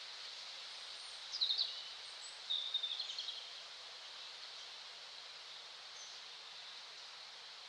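Woodland ambience: a steady high background hiss, with two short bursts of quick high bird chirps about a second and a half in and again near three seconds.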